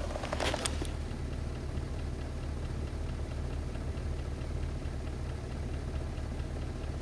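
Pontiac GTO's LS2 6.0-litre V8 idling with a steady, even ticking over the engine hum, about four ticks a second; the owner suspects piston slap. A few sharp clicks come in the first second.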